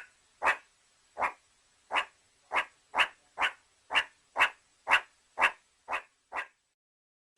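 An animal barking in quick, short, sharp calls, about two a second, that stop shortly before the end.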